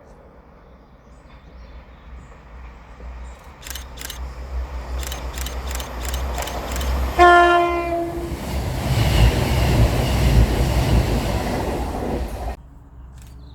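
A train passing close by, sounding a single horn tone for about a second midway, with a run of sharp clicks just before it. The rumble builds to its loudest after the horn and then cuts off suddenly near the end.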